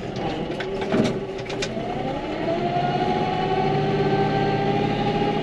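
Farm tractor engine speeding up about two seconds in, then running steadily at the higher speed under load as it makes another plowing pass, with a few sharp clunks before it.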